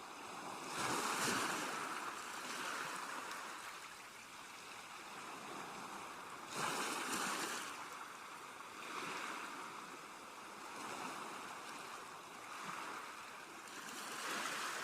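Sea waves washing in and drawing back, in repeated swells of hissing surf, with bigger breaks about a second in, around seven seconds and near the end.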